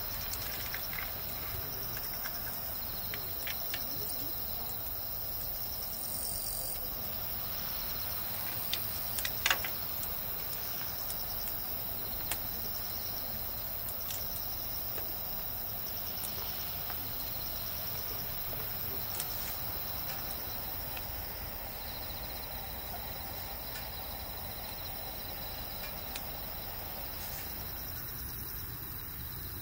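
Crickets chirring steadily in a high, even pulse over a low background hiss, with a few light clicks, the sharpest about nine seconds in.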